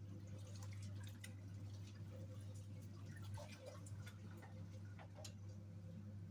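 Hisense 7.5 kg twin tub washing machine running its wash cycle: a steady motor hum under irregular small splashes and drips of water as the pulsator churns the clothes in the wash tub.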